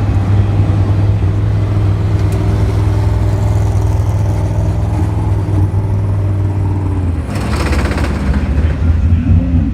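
Race car engines at a racetrack: a steady low engine drone, then a louder rush with rapid pulsing about seven seconds in as a car passes.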